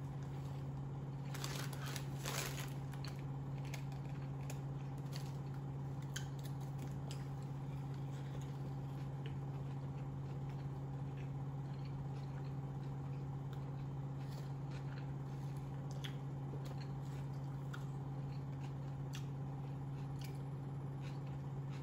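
A person biting into a double-meat hamburger, a crackly burst of bites near the start, then slow close-up chewing with scattered small wet clicks and crunches. A steady low hum runs underneath throughout.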